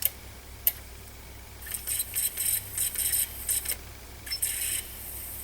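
Tascam MD-801R MiniDisc deck transport working on an old disc: a couple of sharp clicks, then about a second and a half in, high-pitched whirring in short irregular bursts. The disc is one that reads with difficulty on every player.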